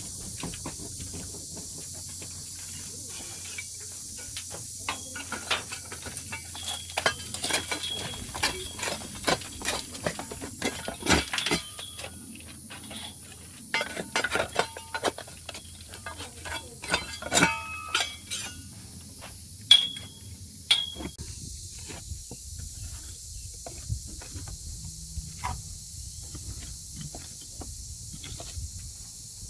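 Scattered knocks and clinks of tools at work, some with a brief metallic ring, coming in clusters for the first two-thirds and then thinning out, over a steady high hiss.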